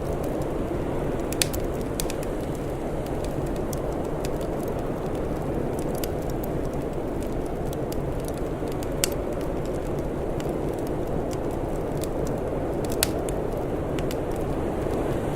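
Wood fire crackling: scattered sharp pops and snaps over a steady low rumble, with a few louder pops, one a little over a second in, one about the middle and one near the end.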